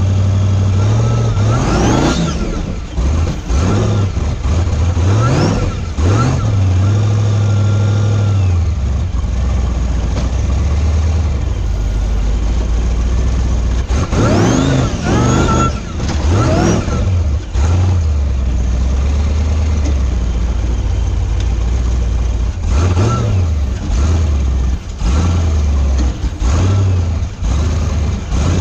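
Rock-crawling buggy engine running low and steady, revved up and back down in short bursts several times as it works over the rocks.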